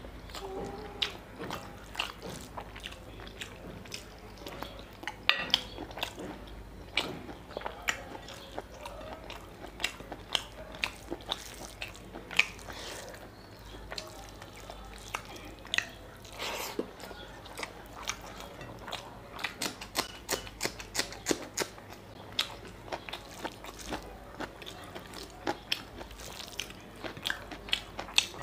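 A man eating mutton curry with rice and luchi by hand: wet chewing with many short, sharp smacks at an uneven pace.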